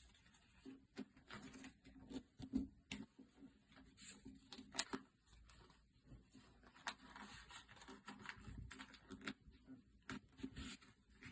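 Quiet rustling and crinkling of a sheet of paper being folded and creased by hand, with many small irregular taps and crackles.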